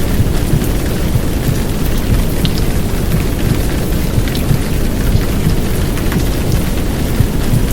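Heavy downpour rain with scattered drop ticks, layered over a steady, low, dense noise from a womb-sound track meant to soothe babies to sleep.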